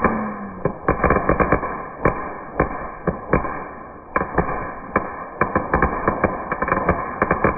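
Fireworks going off: a rapid, irregular string of pops and bangs, several a second.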